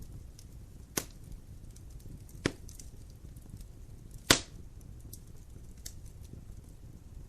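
Wood fire crackling in a fireplace: a low steady rumble with small crackles, and three sharp pops a second or two apart, the third the loudest.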